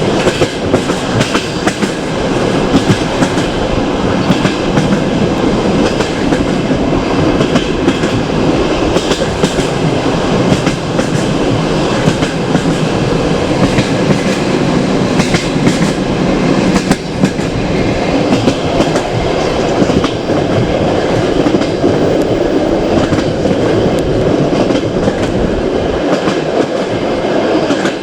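Passenger train running along the track: a steady rumble of carriage wheels on the rails with a clickety-clack of wheels passing over rail joints.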